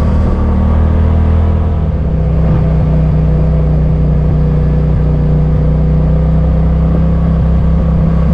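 Vehicle engine running with a steady, even drone as the vehicle drives along.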